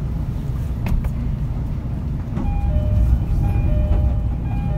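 Low, steady rumble inside an E231-series commuter train's motor car, with a click about a second in. From about halfway, a simple electronic chime melody of a few flat, steady notes plays over the rumble.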